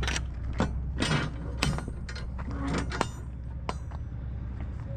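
Inside a Peterbilt truck cab: the engine's steady low hum, with scattered clicks and rattles from loose items or fittings in the cab.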